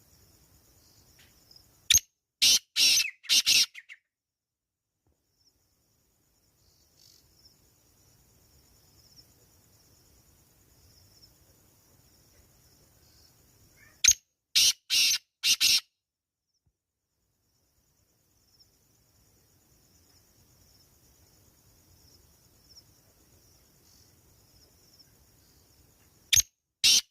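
A bird calling in loud, harsh phrases of four or five short notes, repeated about every twelve seconds: about two seconds in, about fourteen seconds in, and again near the end. Between the phrases, insects keep up a faint, steady, high buzz.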